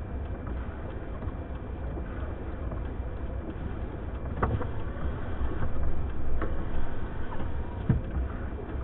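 Blizzard wind rumbling low and steady, swelling for a couple of seconds midway, with a few sharp knocks.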